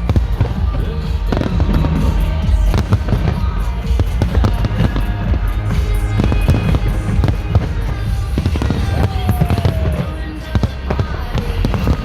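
Fireworks going off in rapid, overlapping bangs over a loud music soundtrack with a heavy, steady bass.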